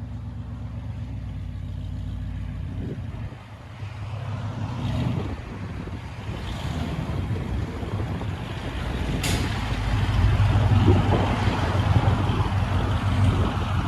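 A 1998 Chevy K1500 Silverado's 5.7-litre V8 running shortly after a cold start through long-tube headers, high-flow cats and straight-piped true dual exhaust, giving a deep, loud exhaust rumble. The rumble grows louder through the second half, with a single sharp click about nine seconds in.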